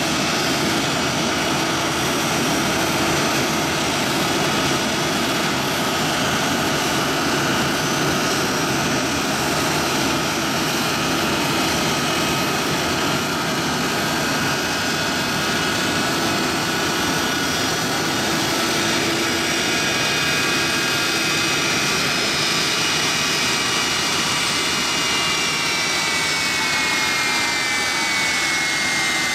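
Boeing C-17A Globemaster III's Pratt & Whitney F117 turbofan jet engines running in a loud, steady rush with several high whining tones. Near the end some of the whine falls in pitch.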